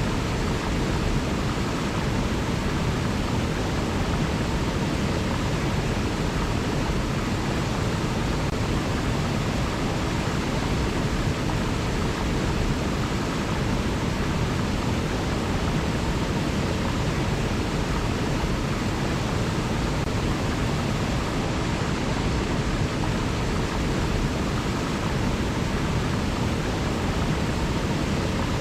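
River water flowing: a steady, unbroken rush, heaviest in the low range.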